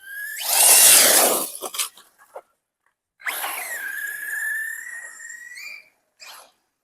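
Electric FTX DR8 RC car running flat out: a loud rush of noise peaking about a second in, then a high motor whine from about three seconds in that climbs slightly in pitch for nearly three seconds and stops.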